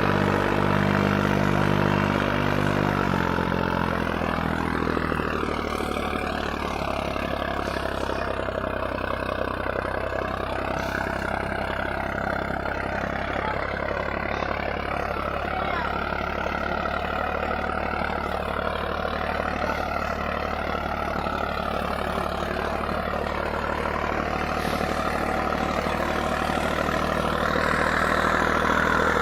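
Swaraj 963 FE tractor's diesel engine running steadily; its note drops to a lower, steady speed about three seconds in.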